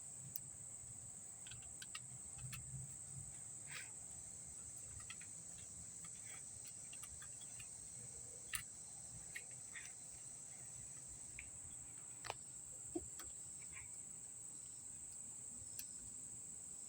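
Crickets chirring steadily and faintly, with scattered light clicks and taps from hands working at the trunk latch's plastic connector plug.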